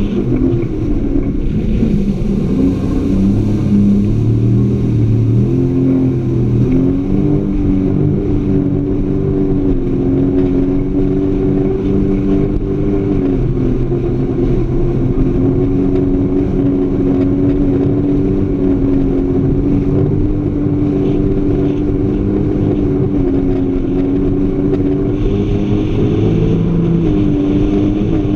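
Jet ski engine running at speed, loud and steady, its pitch rising and dipping a few times as the throttle changes.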